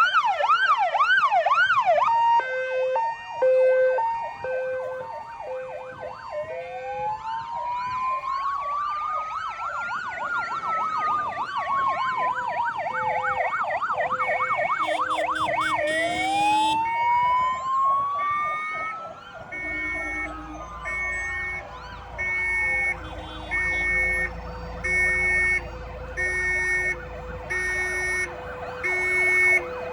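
Several fire engine sirens sounding at once. A fast yelp comes first, then two-tone hi-lo sirens overlap with slow wails that rise and fall twice, and in the last third a two-tone siren sounds in short on-off blasts.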